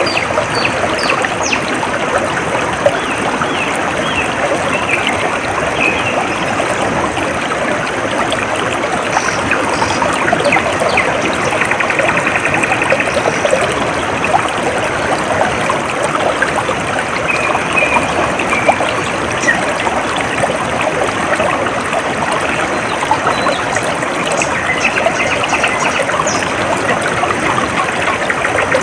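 A stream trickling and babbling steadily, with a few faint, short bird chirps scattered through it.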